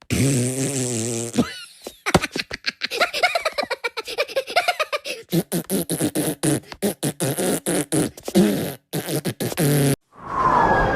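Comic voice-like sound effects: first a low buzzy, fart-like noise, then a long run of rapid chopped, stuttering beatbox-style vocal sounds, with a falling glide near the end.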